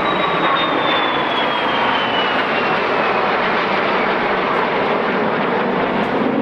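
Vintage jet aircraft (a de Havilland Vampire with a pair of BAC Strikemasters) flying past in formation: a steady jet roar with a high turbine whine that falls in pitch over the first few seconds as they go by.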